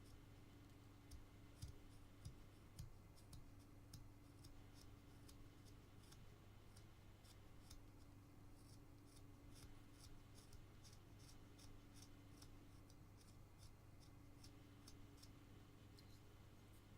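Faint, crisp ticking of a carving knife taking small slicing cuts in basswood, several cuts a second and busiest in the middle, over a steady low hum.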